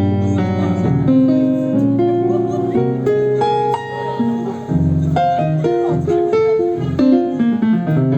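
Instrumental break of a slow song: a plucked string instrument picks out a melody of separate notes, each fading after it is struck, over a held accompaniment.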